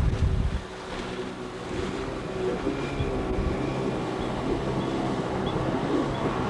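Outboard motor running steadily on an inflatable boat under way, with wind buffeting the microphone for the first half second.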